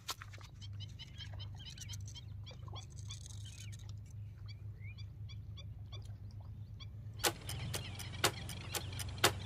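Small birds chirping in a steady run of short high calls over a low hum. About seven seconds in, a clock-like ticking starts, with sharp ticks roughly two to three a second.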